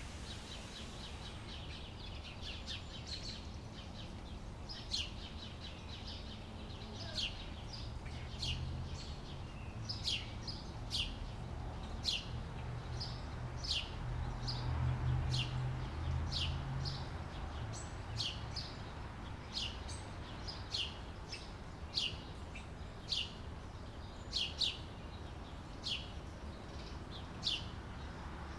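A bird giving short, sharp chirps that drop in pitch, repeated about once a second, over a steady low rumble.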